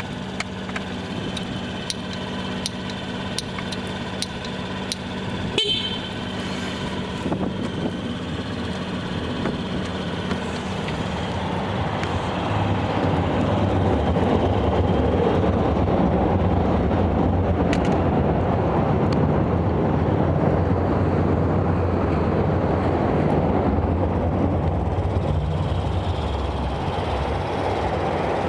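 Honda Gyro Canopy's four-stroke engine running with a steady hum, with one sharp click a few seconds in. Its sound builds up about ten seconds in, then holds steady and louder with a low drone.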